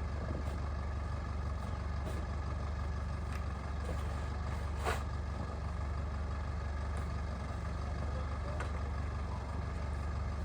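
Engine running steadily with a low, even hum, and a faint click about five seconds in.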